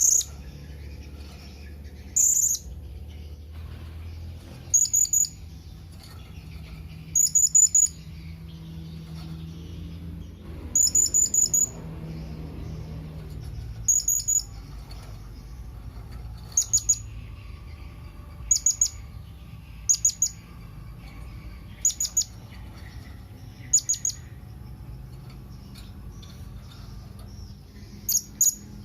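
Blue-crowned hanging parrot (serindit) giving its contact call to companions: short, thin, very high chirps in quick clusters of two to five, repeated about every two seconds.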